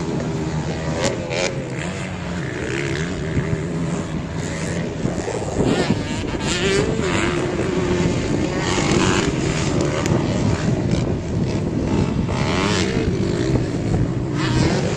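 Several motocross dirt bike engines running together, their pitch wavering and climbing as the riders rev and ease off, with a sharper rev about six seconds in.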